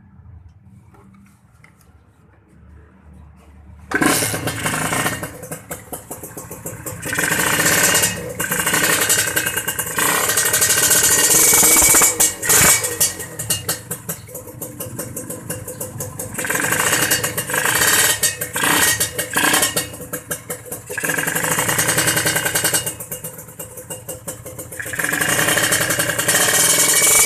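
Kawasaki Ninja 150RR two-stroke single-cylinder engine revved through a KDX Purbalingga aftermarket exhaust with its KIPS power valve closed and disabled. After a few quiet seconds it comes in suddenly and is blipped up and dropped back repeatedly, a surge every two to three seconds.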